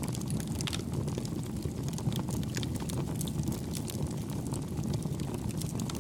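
Campfire burning: a steady low rumble of flames with soft, scattered crackles of burning wood, several a second at irregular spacing.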